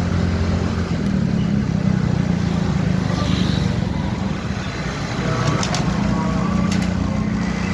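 Motorcycle engine running steadily while riding, its note shifting higher about six seconds in.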